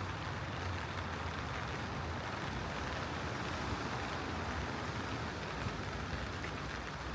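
Steady rain falling on a city street, an even hiss with a low steady rumble underneath.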